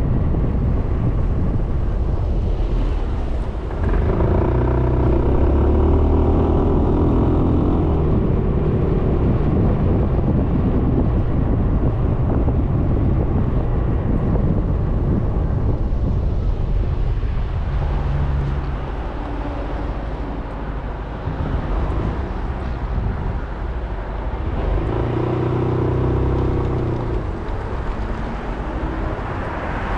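Suzuki Burgman 400 single-cylinder scooter riding in traffic, its engine running under a rush of wind and road noise. A clearer engine note comes through twice, about four seconds in and again about twenty-five seconds in.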